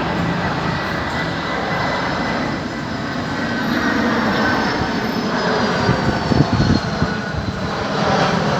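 Boeing 737-400's CFM56-3 turbofan engines on final approach: a steady jet roar with a high whine that slowly falls in pitch.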